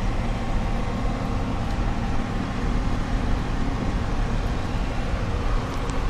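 Steady engine and road noise inside the cabin of a moving car: a continuous low rumble with tyre hiss and no sudden events.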